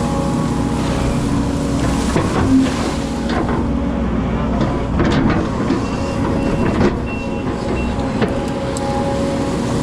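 Hydraulic excavator's diesel engine running steadily under load while it works, with several knocks and clatters. A few short high-pitched tones sound past the middle.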